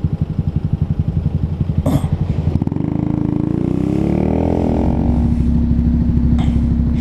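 125cc motorcycle engine chugging slowly with an even pulse, a click about two seconds in, then pulling away: the engine pitch rises for about two seconds, dips at a gear change, and settles into steady running.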